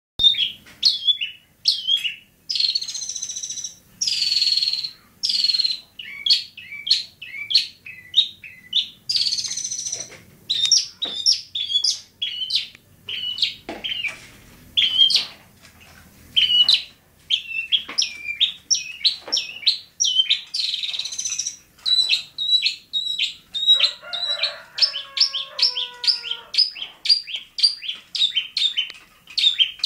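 Long-tailed shrike (cendet) singing a fast, varied, chattering song of rapid high chirps and trills, broken by harsh scratchy notes. A short lower call of a few stepped notes joins in briefly past the middle.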